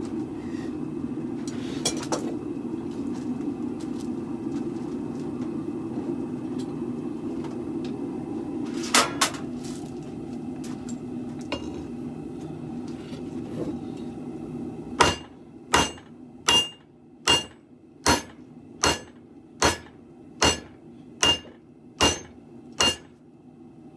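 Forging hammer striking steel on an anvil: about eleven evenly spaced blows, roughly one every three-quarters of a second, each with a short metallic ring. The blows start about 15 seconds in, over a steady low rumble. A sharp double clank comes earlier, around 9 seconds.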